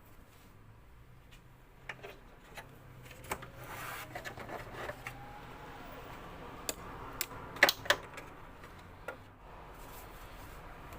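Scattered clicks and knocks of a vacuum cleaner's hard plastic casing and parts being handled during disassembly, with light rubbing between them. The loudest knocks come about two-thirds of the way through.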